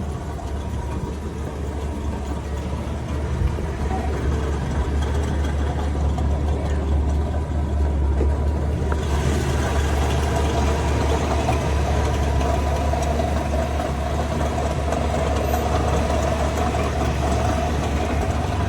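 A car engine idling with a steady low hum. About nine seconds in, a brighter hiss joins it.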